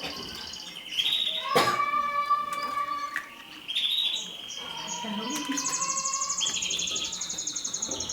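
Mosaic canary singing: a run of long, high, rapid trills, each a fast repeat of one note, switching from trill to trill, with a lower whistled note in the middle and a brief pause a little after three seconds.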